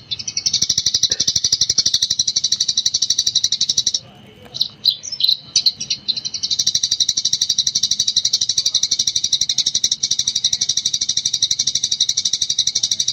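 Eurasian tree sparrow chattering in gecor style: a fast, unbroken run of high chirps. It breaks about four seconds in for a couple of seconds of scattered chirps, then resumes.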